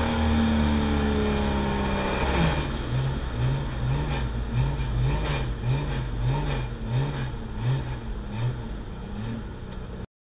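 TC Ford Cortina's crossflow engine heard from inside the cabin, its note falling steadily as the car slows after a drag run. It then runs low with a wavering rise and fall in the note about twice a second, until the sound cuts off suddenly near the end.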